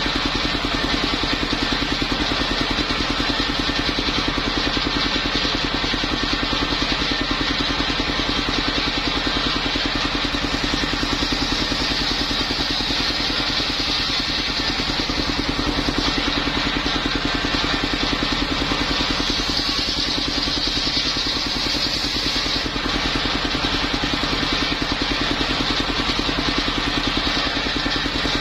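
Engine-driven mobile circular sawmill running steadily: a fast, even engine beat with a high hiss over it.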